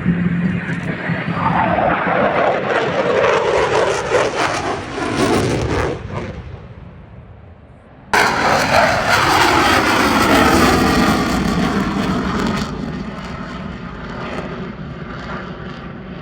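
Military jet aircraft flying past: a loud engine noise whose pitch sweeps down as the jet goes by and away, fading out. About eight seconds in, it cuts suddenly to a second loud jet pass, its pitch again falling as it recedes and fades.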